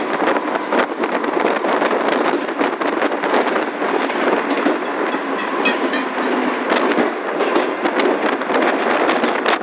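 Moving commuter train on the San Martín line, heard from inside the carriage: a steady rumble of wheels on rail with many irregular clicks and clacks.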